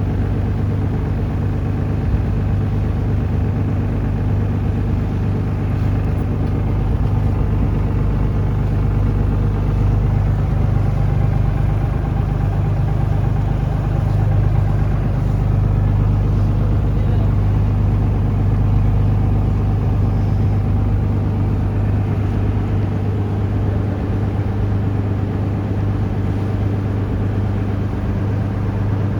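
Taxi boat's engine running steadily under way, a loud, even low drone with a wash of noise above it.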